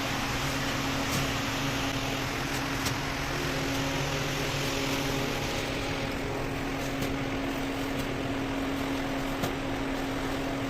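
Steady mechanical hum: an even rushing noise with a constant low tone and a few faint sharp clicks scattered through it.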